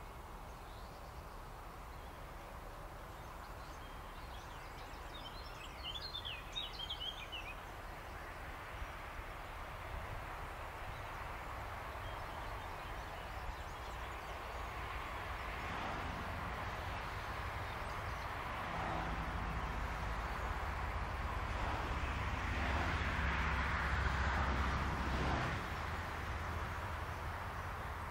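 A distant train approaching on an electric main line: a low rumble with a faint steady hum that builds slowly through the second half, loudest shortly before the end, then eases. A bird sings briefly a few seconds in.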